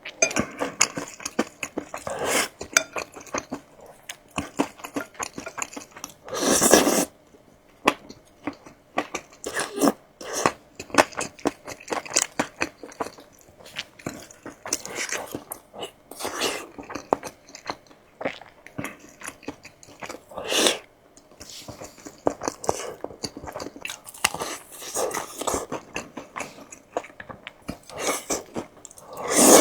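Close-miked eating: a person biting and chewing crunchy food, with dense crackly crunches throughout. A longer, louder burst comes about seven seconds in.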